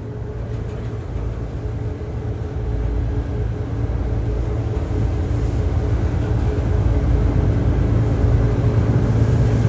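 Car ferry's engines droning steadily at sea, a low hum with a faint steady tone above it, the overall noise slowly growing louder.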